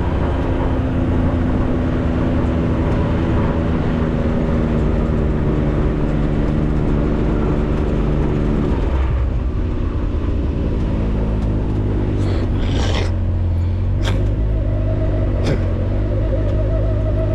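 A 4x4's engine running steadily as it drives. About halfway through the engine note drops and settles lower, as if easing off the throttle. Near the end there are a few short knocks, like bumps or rattles over the rough road.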